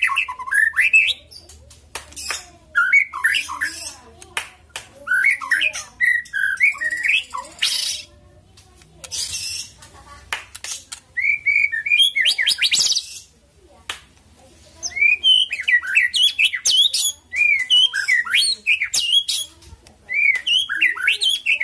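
White-rumped shama (murai batu) singing: bursts of rapid whistled, warbling notes sliding up and down, each a second or two long with short pauses between, mixed with sharp clicks and harsh hissing notes.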